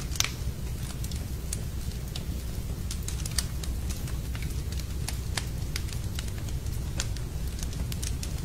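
Wood fire crackling in a fireplace: irregular sharp pops and snaps over a steady low rumble, with a louder pop just after the start.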